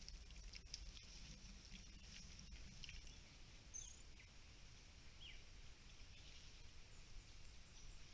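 Near silence: faint forest ambience. A high, thin buzz stops about three seconds in, and a few faint short chirps follow.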